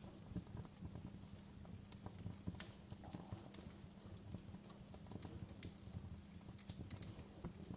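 Fireplace fire crackling, with irregular sharp pops and snaps over a low steady rumble of the flames.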